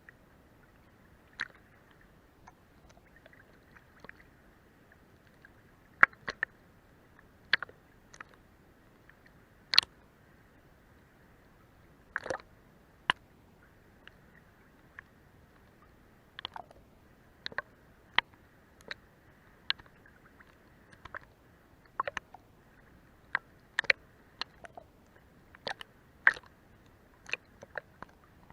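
Sea water lapping and slapping against a boat's hull as it runs beneath the boat: irregular short, sharp splashes and clicks, about one a second, over a faint steady wash.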